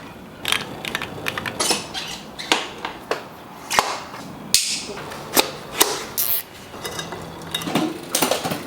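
A string of irregular, sharp clicks and knocks, roughly one or two a second, over a low hiss.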